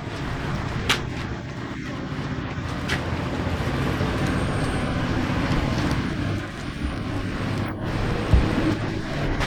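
A steady low rumble like a running vehicle engine, with a few faint clicks and one sharp knock near the end.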